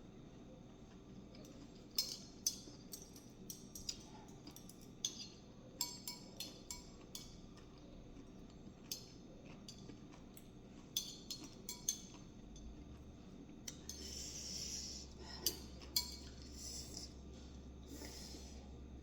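Utensils clinking and tapping against dishes in irregular light strikes, with a short stretch of scraping about two-thirds of the way in.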